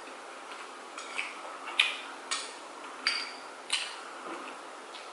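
Eating utensils clinking against dishes: about five sharp clinks spread over a few seconds, some with a short ring, over a steady background hiss.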